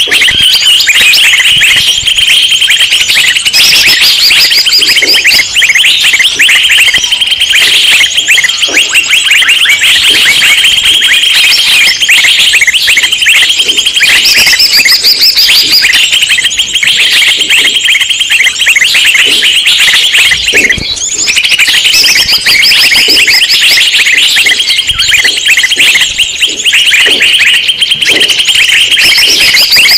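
Dense, loud chorus of many small birds chattering and chirping at once, a noisy flock of the kind used as a lure call to draw wild birds in.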